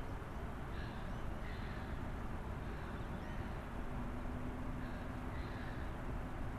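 Steady low background ambience with faint, short bird calls recurring every second or so.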